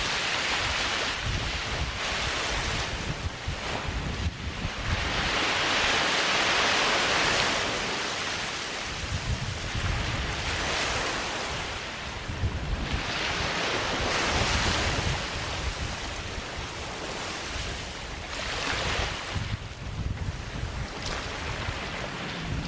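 Waves breaking and washing up on a sandy beach, the surf swelling and fading several seconds apart, with wind buffeting the microphone as a low rumble.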